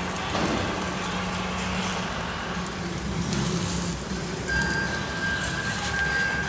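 Toyota RAV4 2.4-litre four-cylinder petrol engine idling steadily. A thin, steady high whine joins the idle about four and a half seconds in.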